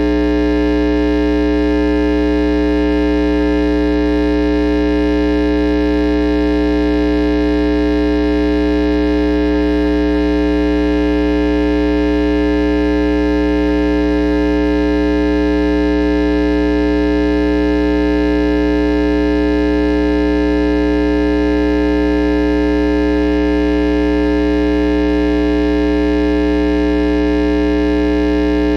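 A steady droning hum of many held tones, strongest in the low middle, that does not change at all in pitch or level.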